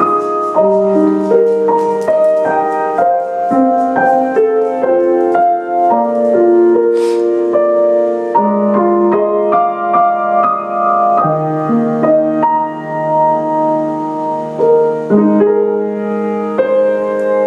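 A piano being played: a slow piece of held chords and melody notes, each chord ringing on before the next.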